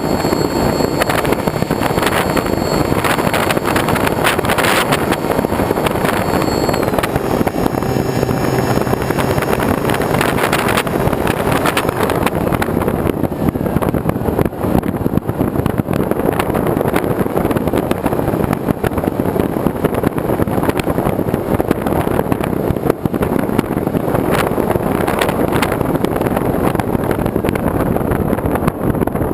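Steady loud rushing noise with wind buffeting the microphone.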